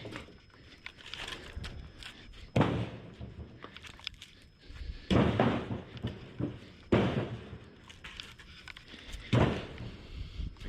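Cut chunks of firewood being tossed onto a load: four heavy wooden thunks, roughly two seconds apart.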